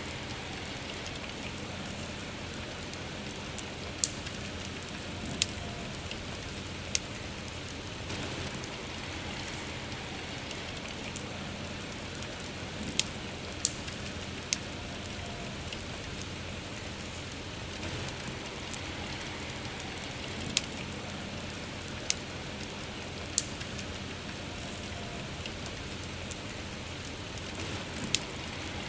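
Steady soft rain with a campfire burning, its wood giving sharp, scattered crackles and pops every second or few.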